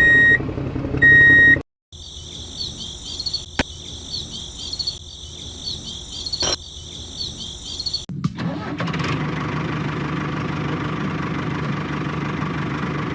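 Two short beeps, then high chirping for several seconds, then a steady engine-like running sound from about eight seconds in.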